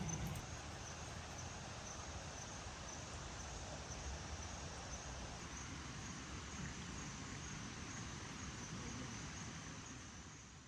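Outdoor rural ambience with an insect, likely a cricket, chirping in a regular high pulse about twice a second over a low background rumble. It all fades out at the end.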